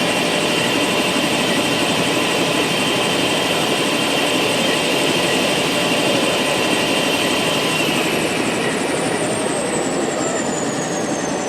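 Helicopter engine and rotor running loudly, heard from inside the cabin after landing. About eight seconds in the steady engine tones stop and a high whine starts falling steadily in pitch as the level eases: the engine being shut down and spooling down.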